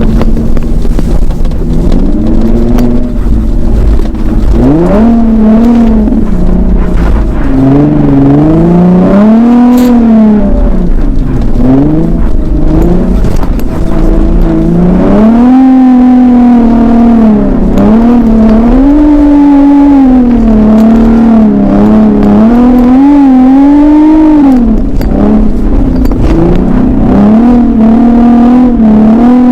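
Infiniti G37S's 3.7-litre V6 revved hard and repeatedly, its pitch rising and falling every second or two as the car tries to drift and its rear wheels spin on icy snow.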